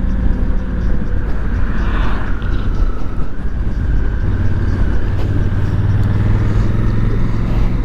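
Honda Africa Twin's 998 cc parallel-twin engine running as the bike slows to pull in, with wind rushing over the helmet camera's microphone; the engine note drops lower and gets stronger about halfway through.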